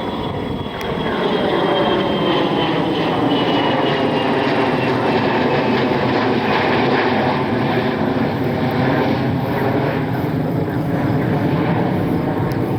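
Business jet taking off, its engines at takeoff thrust. A turbine whine slides slowly down in pitch as the jet passes, and the noise swells about a second in and then stays loud.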